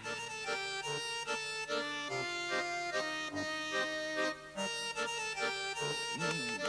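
Accordion music: a quick melody of short notes over a held low note.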